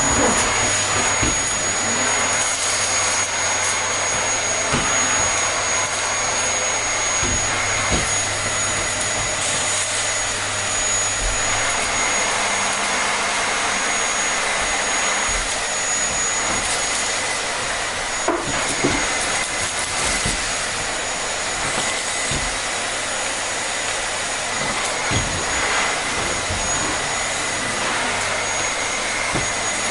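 Vacuum cleaner running steadily: a constant rushing air noise with a thin, high motor whine over it and a few faint low bumps.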